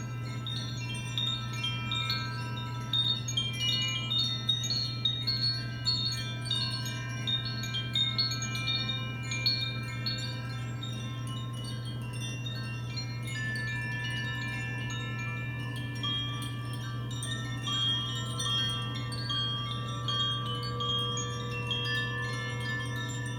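Chimes being played gently, many small ringing tones overlapping and shimmering, struck more often in the first half and thinning to fewer, longer-held tones later, over a steady low drone.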